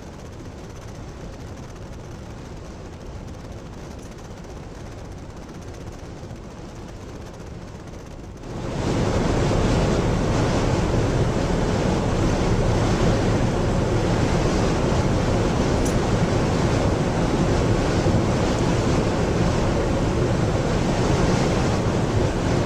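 Wind blowing across the microphone: a steady rushing noise that turns suddenly much louder about eight seconds in and stays loud.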